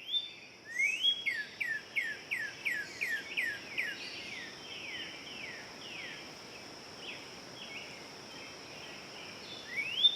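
Northern cardinal singing: a series of clear whistled notes, each sliding down in pitch, coming quickly at first and then slower and softer, with a last rising note near the end. A steady high insect trill runs underneath.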